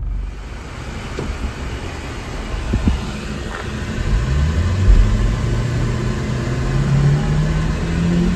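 A 1996 Subaru Sambar kei truck under way, its small engine running with road and cabin noise, then rising in pitch as it accelerates from about four seconds in.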